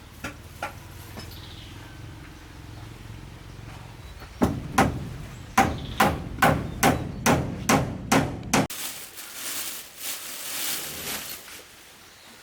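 A hammer striking wood, about ten quick blows a little over two a second, over a low steady hum that cuts off suddenly after the last blow. A softer rustling noise follows near the end.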